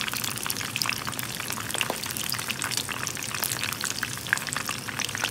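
Frozen Shanghai lumpia deep-frying in oil in a pan: a steady, dense crackling sizzle of bubbling oil. The sizzling is loud, which shows the lumpia are not done yet.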